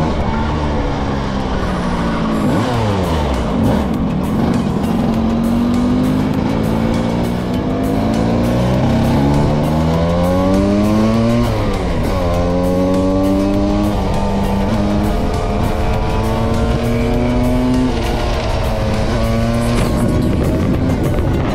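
Small two-stroke engine accelerating: its pitch climbs over several seconds, drops sharply at a gear change about twelve seconds in, then runs steady before dropping again near the end. In the first few seconds a second engine's pitch falls away across it.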